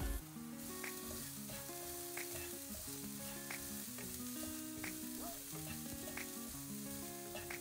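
Oil sizzling in a non-stick wok as chopped shallots, garlic and red chilli fry, stirred with a spatula. The sizzle comes up about half a second in and holds steady, over light background music.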